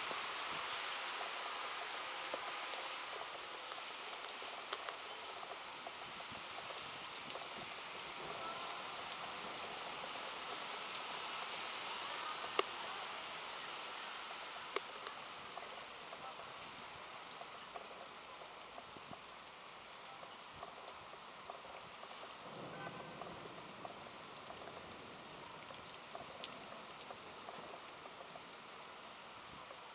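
Thunderstorm rain falling steadily, with many separate drops ticking sharply, the rain easing gradually toward the end.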